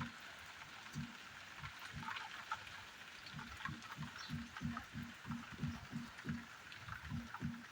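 Steady rain hissing, with scattered small drop ticks. Over it come irregular dull, low knocks, about two to three a second, of drops landing close by.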